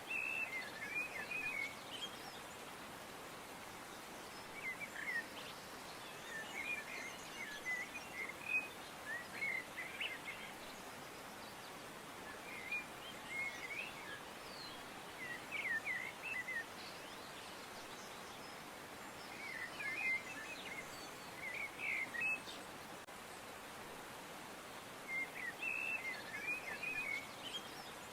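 A songbird singing short twittering phrases, repeated every few seconds, over a steady background hiss.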